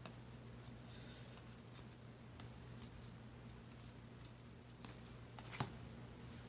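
Faint rustling and light clicks of baseball cards being handled and slid one behind another, with a sharper click about five and a half seconds in, over a steady low hum.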